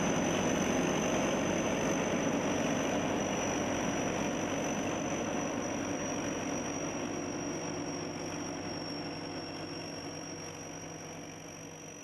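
SS-200 A rice combine harvester's engine running steadily, with a steady high-pitched whine over it; the sound fades gradually.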